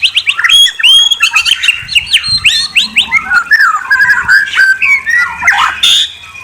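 Murai songbird singing: a loud, fast and varied run of whistled notes, quick pitch sweeps and trills, thinning out near the end.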